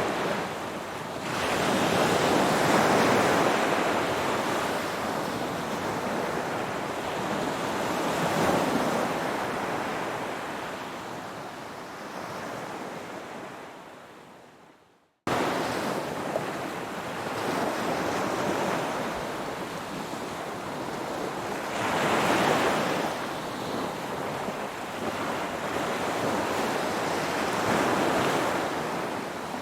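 Ocean surf: waves washing in and receding in slow swells every five or six seconds. About halfway through the sound fades away to a moment of silence, then cuts back in suddenly.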